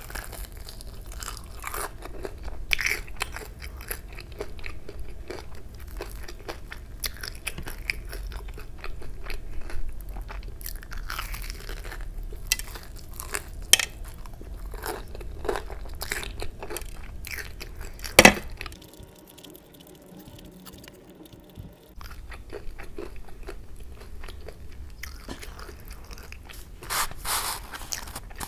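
Close-miked crunching and chewing of a crumb-coated fried kurkure chicken momo: repeated crisp crackles as the coating breaks, with one loud crack about 18 seconds in. Near the end comes a short dense burst of crinkling as a red cardboard wrapper is handled.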